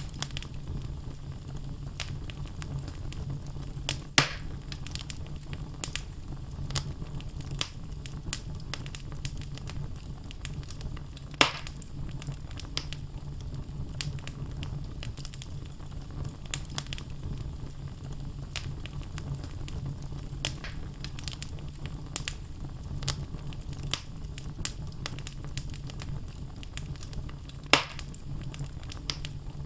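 Wood logs burning in a fireplace, crackling with many small ticks and three louder pops, over a steady low rumble.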